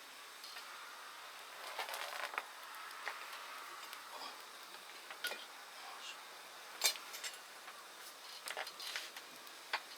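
Scattered light clinks and knocks of cooking utensils and dishes being handled, with one sharper click about seven seconds in.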